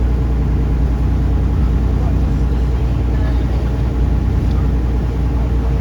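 A taxi boat's engine running steadily, an even low rumble with no change in pace, with faint voices behind it.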